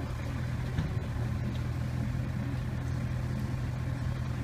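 A car engine idling steadily with a low, even hum, with a small knock about a second in.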